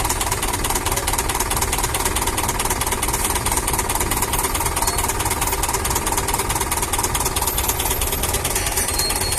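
Heavy diesel engine running steadily with a fast, even knocking rattle.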